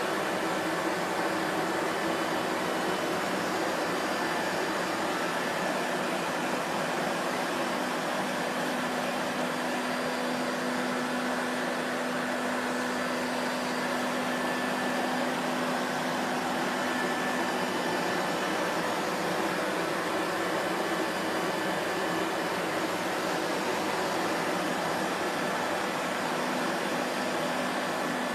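Vacuum cleaner motor running steadily, a constant rushing whir with a faint low hum under it.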